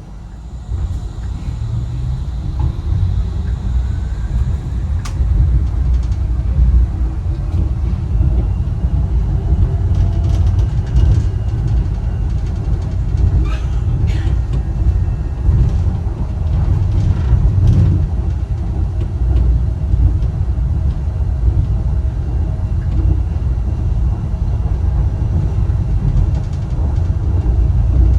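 Wuppertal Schwebebahn suspension railway car in motion: a steady low rumble of the running gear on the overhead rail, with faint whines gliding in pitch and a few light clicks.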